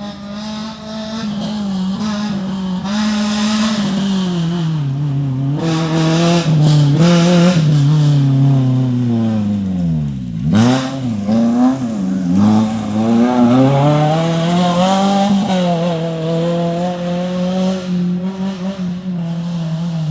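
Off-road race car engine revving hard, its pitch rising and falling over and over as it is worked through the throttle and gears. About halfway through, the revs drop sharply almost to idle, then climb again.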